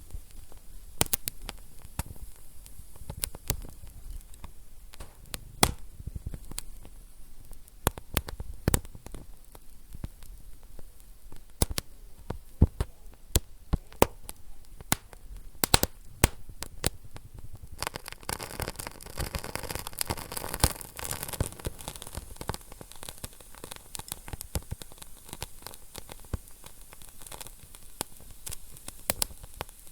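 Wood fire burning in a fireplace, crackling with many irregular sharp pops over a low hiss. A stronger hissing flare comes about two-thirds of the way through.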